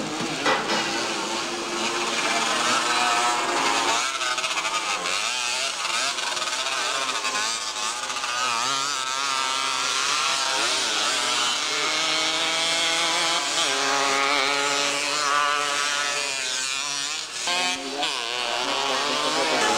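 Several motocross motorcycle engines racing, their pitch rising and falling over and over as the riders open and close the throttle.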